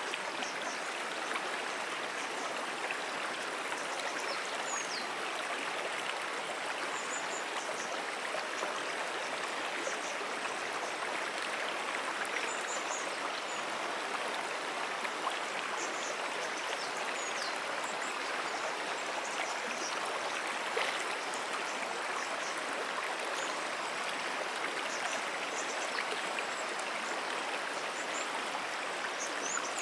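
A flowing freshwater stream: a steady, even rush of running water, with faint short high chirps now and then.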